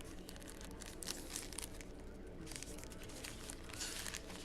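Football card packs and cards being handled: a faint, continuous run of small crackles and rustles, wrappers crinkling and cards sliding against each other.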